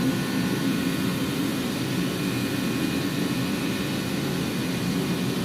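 Steady mechanical hum of a running machine, even in level with no clicks or knocks.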